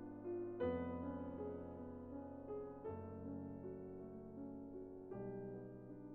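Soft background piano music, slow sustained chords changing about every two seconds.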